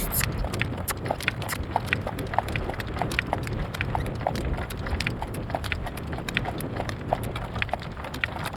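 Horse's hooves trotting in a quick, even clip-clop rhythm while pulling a driving cart, with wind rumbling across the microphone.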